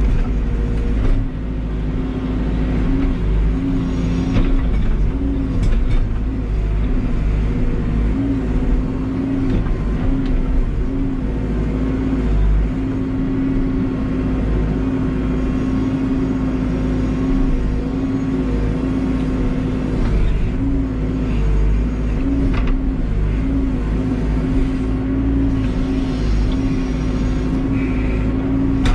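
A backhoe's diesel engine running steadily at working speed. Its pitch wavers slightly up and down throughout, as when the engine takes and sheds load.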